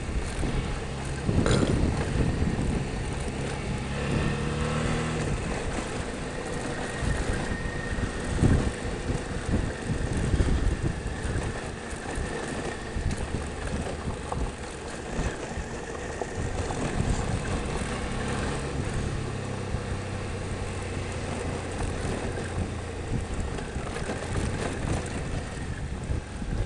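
Motorcycle engine running at low speed over a rocky dirt road, its pitch rising and falling with the throttle, under steady wind noise on the microphone. A few sharp knocks from the bike jolting over rocks, the loudest about a second and a half in and again about eight seconds in.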